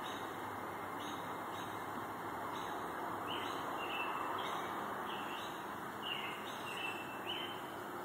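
Songbird calling in a steady series of short, clear chirps, about two a second, several sliding slightly down in pitch, over a steady hiss of outdoor background noise.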